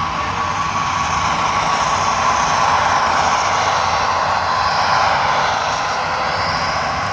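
A train running past: a steady rushing noise with a faint steady whine, swelling to its loudest in the middle and fading towards the end.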